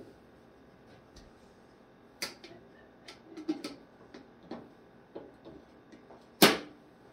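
Scattered clicks and knocks of things being handled, with one much louder knock near the end.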